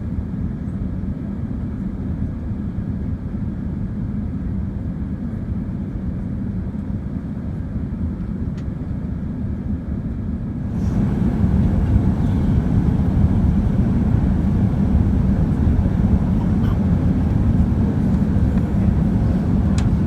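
Steady low rumble of airflow and engines inside a Boeing 787 Dreamliner's passenger cabin in flight. It steps up louder and hissier about halfway through, with a few faint clicks.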